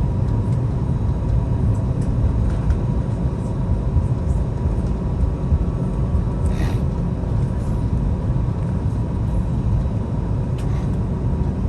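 Steady low rumble inside the cabin of an Airbus A321neo moving on the ground just after landing, with a faint steady whine over it. A brief hiss comes about seven seconds in.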